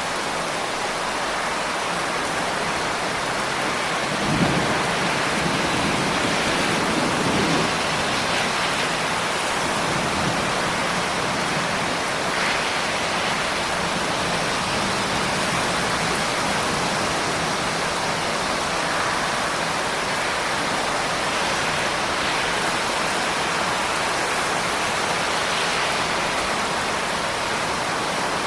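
Steady rain falling, an even hiss throughout, with a short low rumble that starts abruptly about four seconds in and dies away over about three seconds.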